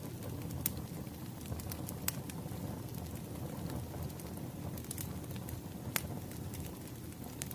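Wood fire crackling: a steady low rumble with sharp, irregular pops and snaps, the loudest about two seconds in and near six seconds.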